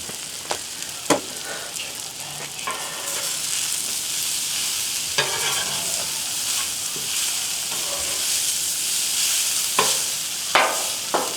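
Food sizzling on a Blackstone flat-top griddle: a steady frying hiss that gets a little louder about three seconds in, with a few sharp clicks and scrapes.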